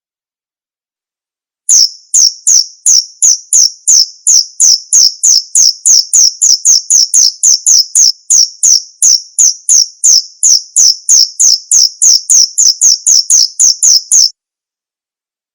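Male cricket chirping: a fast, even series of high-pitched chirps, about three or four a second. It starts suddenly about two seconds in and cuts off suddenly about a second before the end.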